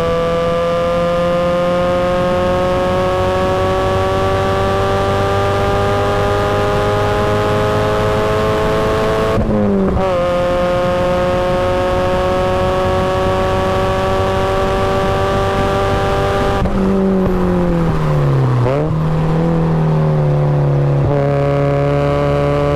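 Supercharged Mazda Miata's four-cylinder engine pulling hard on track, its pitch climbing steadily through a gear. A quick upshift comes about ten seconds in; about seventeen seconds in the throttle lifts and the note falls through a downshift, then climbs again as it accelerates.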